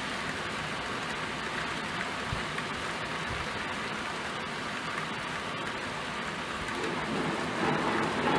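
Steady rain falling, an even hiss. It swells into a louder rushing rumble near the end.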